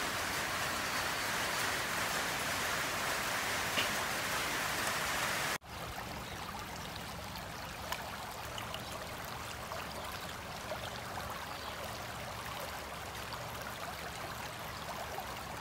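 Heavy rain falling steadily. About five and a half seconds in it cuts to muddy storm runoff flowing fast down a shallow channel, a steady, slightly quieter rushing of water.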